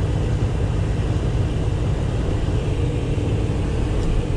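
Steady low rumble of a running truck, heard from inside the cab.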